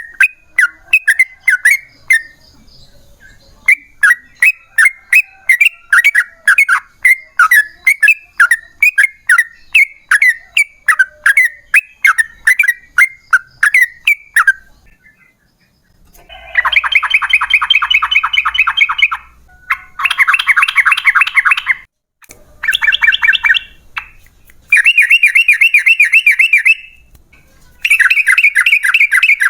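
Yellow-vented bulbul (trucukan) calling: for the first half a series of short sharp chirping notes, about two a second, then from about halfway a string of fast rattling trills in bursts of about two seconds with brief pauses between them.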